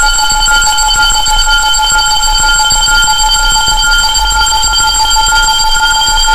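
Synthesized frequency-track tones: several steady pitches held together over an even hiss and a low hum, unchanging throughout.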